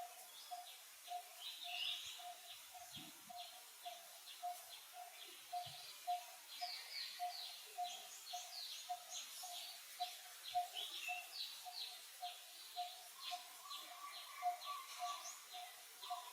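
Birds calling outdoors: a single low note repeats evenly, about twice a second, while other birds give many short, high chirps.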